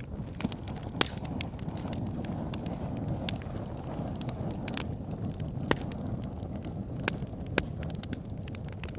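Wood fire burning in a fireplace: a steady low rumble of flames with scattered sharp crackles and pops from the burning logs, a few of them louder.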